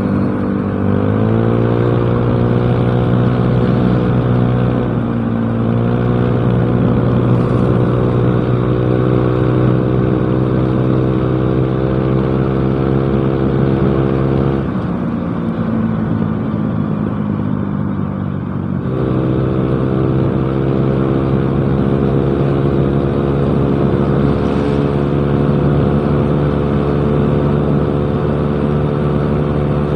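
Yamaha Mio Smile scooter's single-cylinder four-stroke engine running through a cheap aftermarket exhaust while riding. The engine note rises about a second in and holds steady, drops back to a lower pitch about halfway through, then picks up again a few seconds later and holds.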